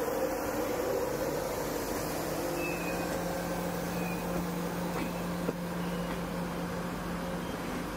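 Steady hum of a train at a station platform, with a low drone that sets in about two seconds in and a few faint, brief high squeals.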